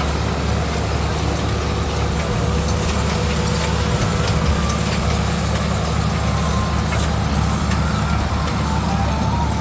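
Ford tractors' diesel engines running steadily: a continuous low engine sound.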